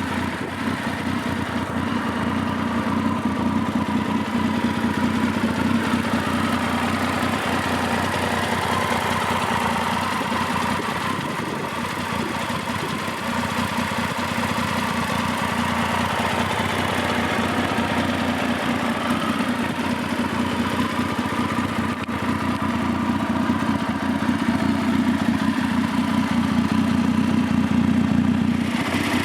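Triumph Speed Triple 595N's 955cc inline three-cylinder engine idling steadily through its exhaust.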